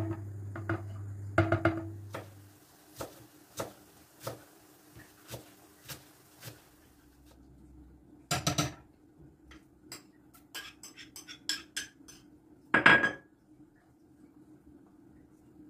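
Dishes and cutlery clinking and clattering: a run of light knocks, a longer clatter about eight seconds in, and the loudest clatter near the thirteen-second mark.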